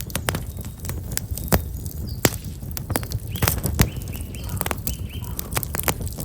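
Black locust firewood burning in a campfire, crackling with many sharp, irregular pops over a low steady rumble of the flames. Small birds chirp faintly a few times in the middle.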